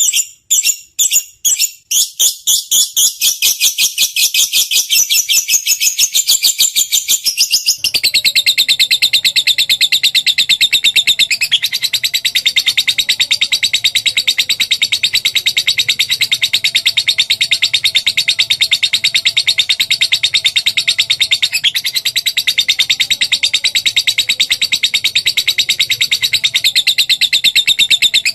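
Lovebird chattering in its long 'ngekek' song: a few separate high chirps quickly speed up into a very rapid, unbroken trill. The trill shifts abruptly in tone a few times.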